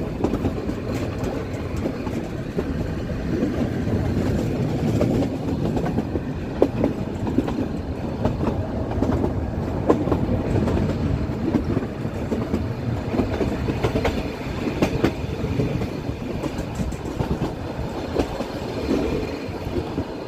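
Nilgiri Mountain Railway coach running along the track: a steady rumble of wheels on rail with a few sharp clacks now and then.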